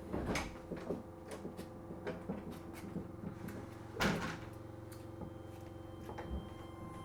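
Inside a Keio 7000 series commuter train car at a standstill: a steady electrical hum from the car's equipment, with scattered clicks and knocks, the loudest a thump about four seconds in.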